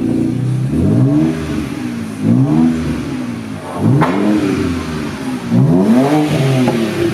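BMW E92 328i's N52 inline-six with a muffler-delete exhaust, revved four times in quick blips, each rise in pitch followed by a fall back toward idle.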